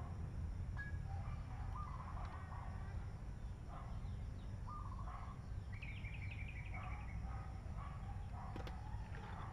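Birds calling and chirping, short scattered calls with a quick run of about seven high notes around six seconds in, over a steady low rumble.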